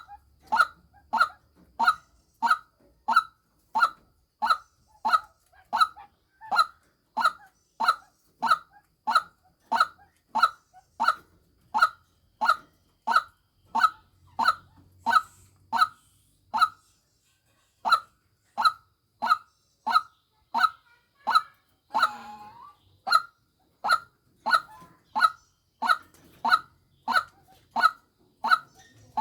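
White-breasted waterhen calls repeated in a steady rhythm, about one and a half short calls a second, with a brief pause about seventeen seconds in: a call recording used as a lure.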